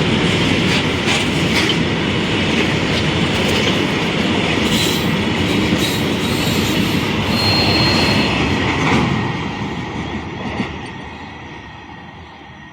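Freight train passing at speed: a steady rumble of wheels on rail, with clicks over the rail joints and a brief high wheel squeal. It fades away from about nine seconds in.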